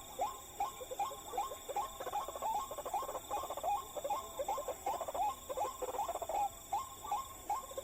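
White-breasted waterhen (ruak-ruak) calling: a rapid, regular string of short, croaking notes, about three a second, going on without a break.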